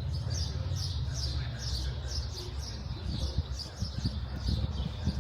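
Small birds chirping over and over, quick falling chirps about two a second, over a steady low rumble.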